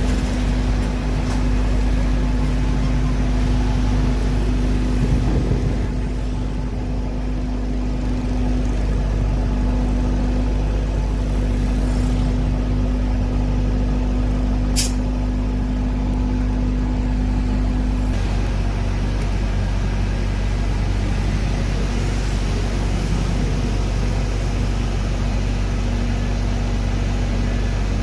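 Fire truck engine running steadily on the move, a continuous low drone whose tone shifts about two-thirds of the way through, with one brief sharp tick near the middle.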